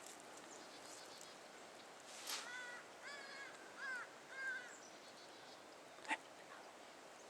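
An unidentified animal calling: four short, harsh calls less than a second apart, starting about two seconds in, each slightly arched in pitch. A sharp click follows near the end.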